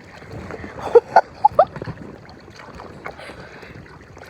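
Water lapping and sloshing around a kayak on the water, with wind on the microphone. A few brief, sharp high-pitched sounds come quickly one after another about a second in.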